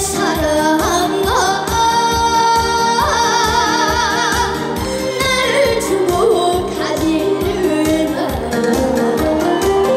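A female singer singing a Korean trot-style song with wide vibrato on held notes, over an accompaniment with a steady beat of about two a second.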